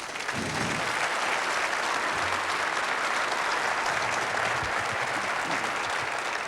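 An audience applauding steadily, a dense clapping that swells in just after the start and fades out near the end.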